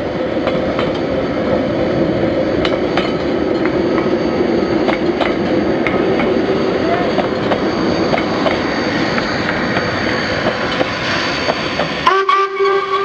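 A train running along the track: a steady rumble with repeated sharp clicks from the wheels over the rails. About a second before the end, the rumble cuts off abruptly and a steady pitched tone takes over.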